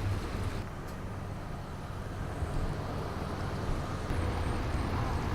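Road traffic noise: vehicles driving along a street, a steady low rumble that grows a little louder near the end.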